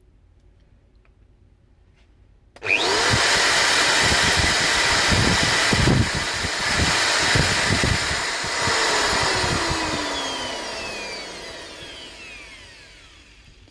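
Electric motor of a Bosch GWS 11-125 angle grinder, running with its housing opened up. It switches on suddenly about two and a half seconds in with a rising whine, runs loud for about six seconds, then is switched off and winds down with a falling whine. The motor spins but does not drive the spindle, a fault the owner traces to a missing nut on the drive pinion.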